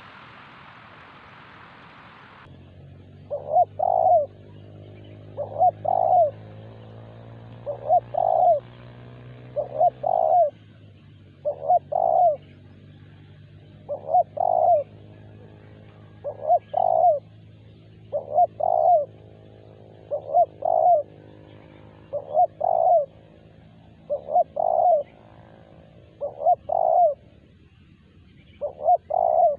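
Spotted dove (terkukur) cooing: a repeated two-part coo phrase, about once every two seconds. A steady hiss cuts off suddenly in the first few seconds, and a faint low hum runs underneath.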